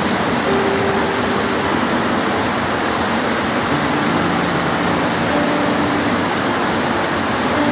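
Steady rain falling, an even hiss that stays at one level, with a few faint short steady tones under it.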